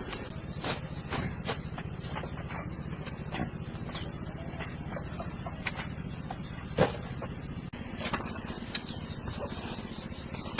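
Crickets chirping steadily in one continuous high tone, with scattered light clicks and knocks, one louder knock about seven seconds in.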